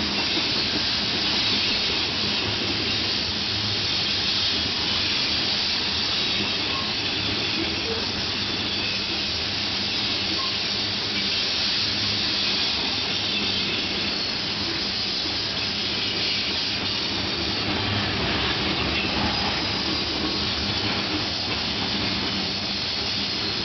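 Freight train of covered grain hopper cars rolling past on the rails, a steady noise with no break.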